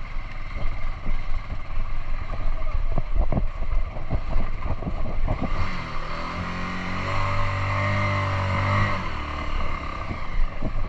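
A motor vehicle's engine revving hard and held high for a few seconds from about halfway through, then easing off. Before that, irregular knocks and rattles over a rough, noisy background.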